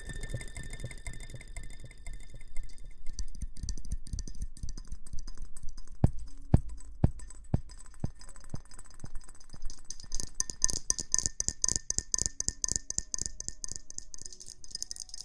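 Close-miked ASMR rustling: dense, irregular crackling and scratching, with a few sharper taps about six to seven seconds in and a thicker, hissier crackle over the last five seconds.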